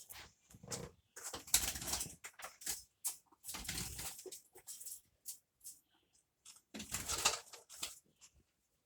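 A bird loose in a small room flapping its wings in rapid noisy bursts: three longer bouts of fluttering with short flaps between them.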